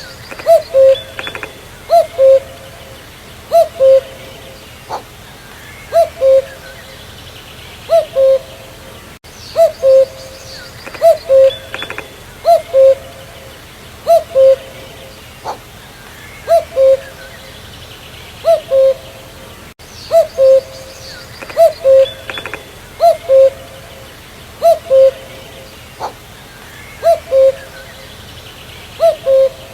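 Common cuckoo calling its two-note "cuck-oo", a higher note followed by a lower one, repeated over and over about every second and a half. Faint chirps of other birds sound behind it.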